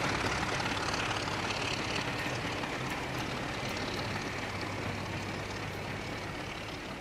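A locomotive running with a steady engine-like drone and a faint low hum, slowly fading away.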